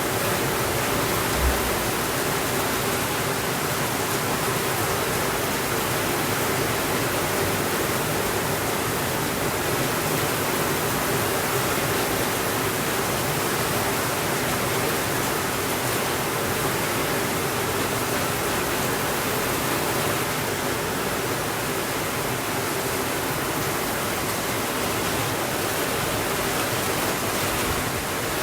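Steady, even rainfall hiss with no thunder, with a single short low thud about one and a half seconds in.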